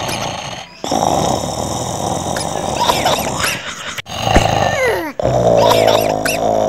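A dog growling and whining, with short falling whines and then a long, steady low growl over the last second and a half.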